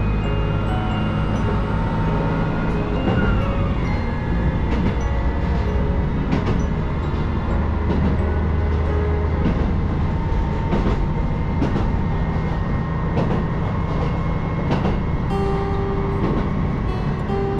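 Diesel railcar running, heard from inside the carriage: a steady engine and running rumble, with the wheels clicking over rail joints every second or two. A whine falls in pitch about three seconds in.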